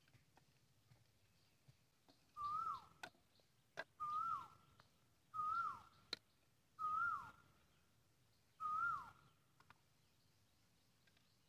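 A bird calling five times at an even pace, each call a short note that drops sharply in pitch at its end, with a few light clicks between the calls.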